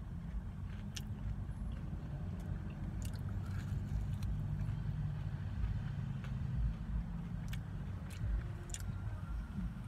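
A person biting and chewing fried chicken tenders with buffalo sauce, with short wet mouth clicks scattered through, over a steady low rumble.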